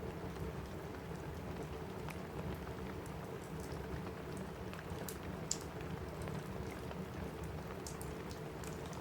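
Steady rain on a cabin roof, with a few sharp pops and crackles from a wood fire in a fireplace scattered through it.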